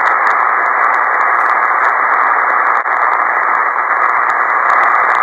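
Ham radio receiver hissing steadily with band noise on a single-sideband voice channel, the sound cut off sharply above the narrow speech passband, with faint ticks of static.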